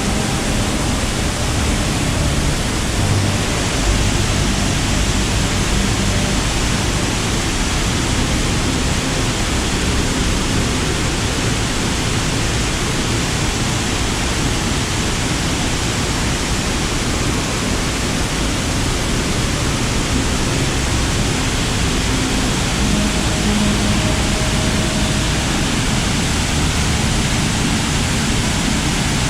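Loud, steady rush of falling water from a waterfall, with no breaks.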